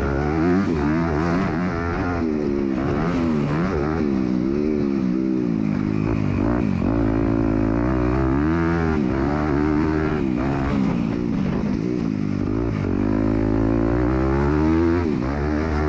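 MX2 motocross bike's engine revving up and down over and over as the rider works the throttle around the track, its pitch rising and falling every second or two.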